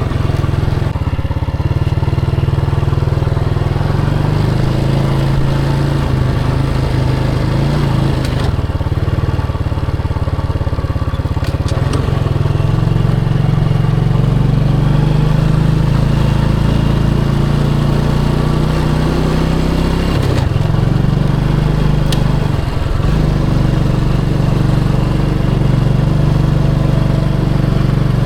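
Motorcycle engine running steadily during a ride, its note changing about 12 seconds in and again around 20 seconds.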